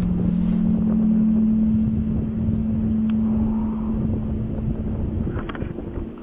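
A steady low drone, the kind of sound reported as strange trumpet-like noises from the sky, held on one pitch for about five seconds before a higher tone takes over. Wind rumbles on the microphone underneath.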